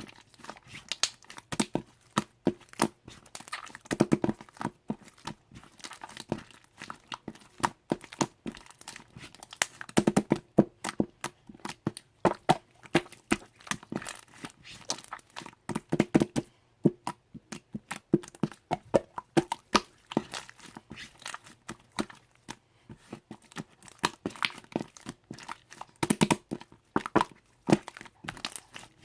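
Hands squishing, poking and stretching slime: a steady, irregular run of sticky pops, clicks and crackles as air pockets burst.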